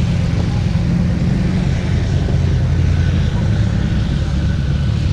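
Vehicle engine running steadily at low revs, a continuous low rumble.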